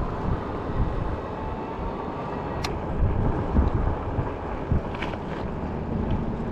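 Road traffic passing while wind rumbles on the microphone, with a single sharp click near the middle.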